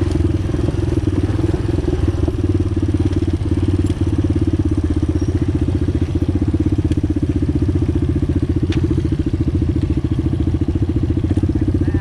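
ATV engine running at a steady pace with a fast, even pulsing chug and no big changes in speed while the quad rides along the trail.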